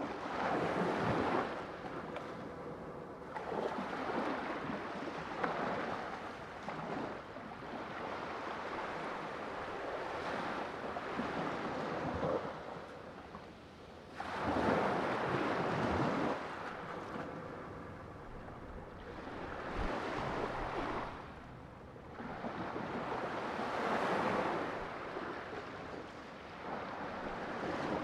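Sea waves breaking and washing on a shore, the surf swelling and fading every few seconds, with the biggest wave about halfway through.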